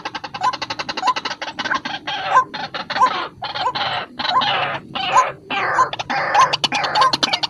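White-breasted waterhen (ruak-ruak) calling. A fast rattling run of notes is followed by loud, harsh croaking notes repeated about every half second, the lure call used to draw these birds in.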